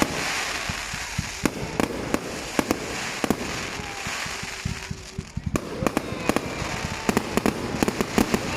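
Fireworks going off: a rapid run of sharp cracks and bangs over a steady crackle. There is a brief lull about five seconds in, then the cracks come thick again.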